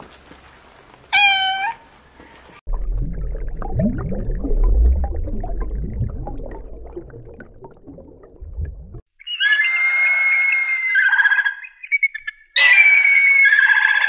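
A domestic cat meows once, briefly, about a second in. A low rumbling noise follows for about six seconds. After it come two loud bouts of shrill bird calls.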